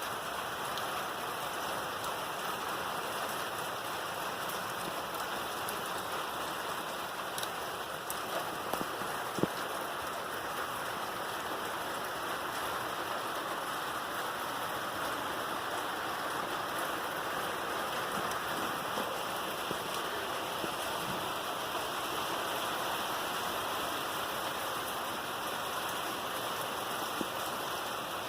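Heavy rain pouring down steadily in a strong thunderstorm, with a few faint sharp ticks of drops or debris striking nearby about eight to nine seconds in.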